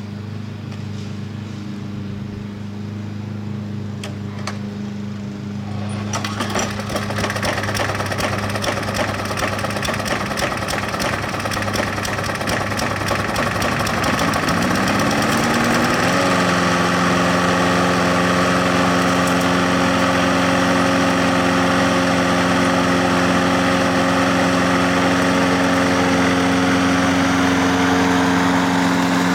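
Briggs & Stratton 190cc (6.75) single-cylinder four-stroke mower engine running. About halfway through it rises in pitch, then settles into a steady, louder run at higher speed.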